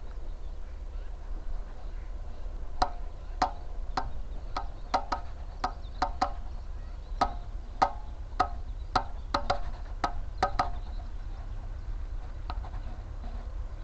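A run of about seventeen sharp, hollow knocks at an uneven pace of roughly two a second, with one fainter knock near the end, over a steady low rumble.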